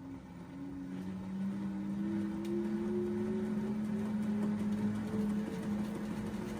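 LG washing machine running, its motor whining with a tone that rises steadily over a low hum as the drum speeds up, growing louder.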